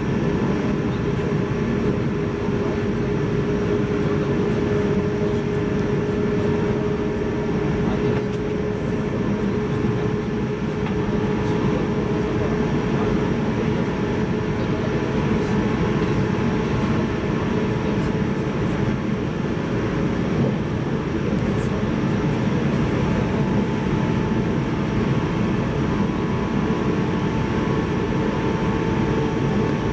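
Cabin running noise of a JR 185-series electric multiple unit at speed: a steady rumble of wheels on rail and the car body, with a constant droning tone over it.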